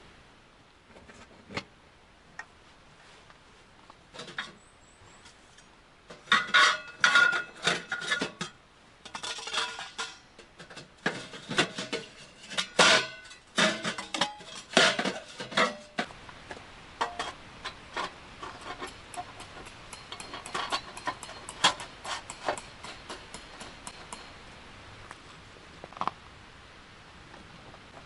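Metal clattering and clinking, as of metal gear being handled: a few scattered clicks, then a busy run of ringing clanks from about six to sixteen seconds in, easing into lighter, quicker ticking.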